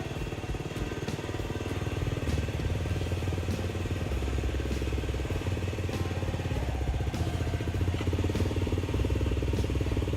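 Motorcycle engine running at low revs, its note shifting up and down a few times as the bike is worked up a loading ramp.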